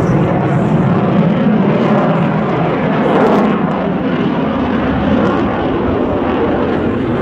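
Loud, steady engine noise from the F-22 Raptor's two jet engines as the fighter flies its display.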